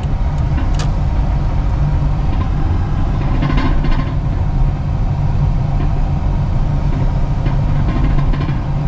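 Steady engine and road rumble from inside a vehicle's cab while driving.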